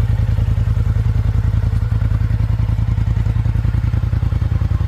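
Polaris Sportsman 850 ATV's freshly rebuilt parallel-twin engine idling steadily, with an even, rapid low pulsing.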